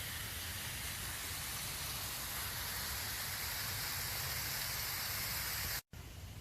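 Steady rush of falling water from a waterfall, a constant hiss over a low rumble. It cuts off abruptly near the end.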